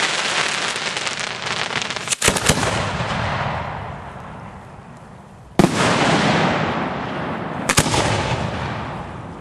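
Fireworks going off at close range: sharp reports about two seconds in, again past the middle and near the end, each followed by a hissing crackle that fades away over a few seconds.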